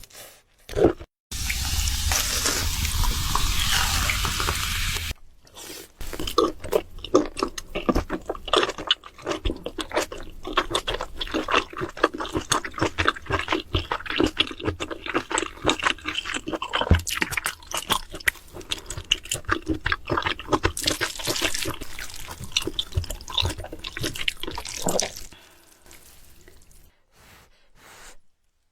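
Close-miked wet, sticky food sounds of sauce-coated noodles. About a second in there are a few seconds of steady rushing noise, then a long run of rapid, irregular squelches and clicks that dies away near the end.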